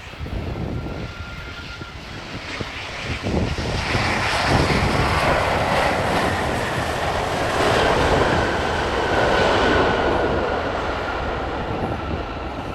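Jet airliner's engines passing, the noise swelling about four seconds in and easing off near the end, with a steady whine in it.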